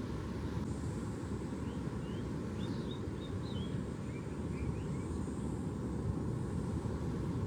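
Steady low rumble of ocean surf, with a few short, high bird chirps about two to five seconds in.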